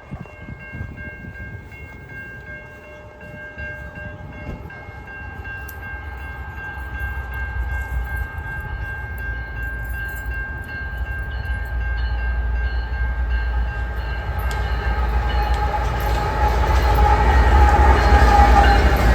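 Train approaching and growing steadily louder, a deep rumble with rising rail noise. Steady high tones, such as a distant train horn, hold through the first two-thirds and fade out.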